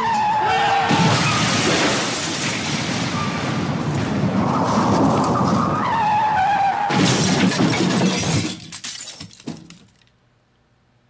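Staged car-crash sound effect: tyres screeching in wavering squeals amid smashing and breaking glass, dying away about nine seconds in, then near silence.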